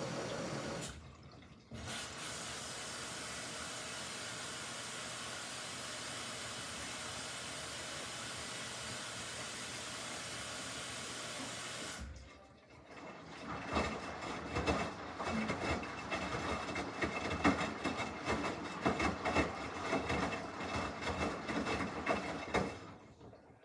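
Samsung washing machine taking in water: a steady rush of water, broken briefly about a second in, that stops about halfway. Then the drum turns the wet load, with irregular sloshing and light knocks until it fades near the end.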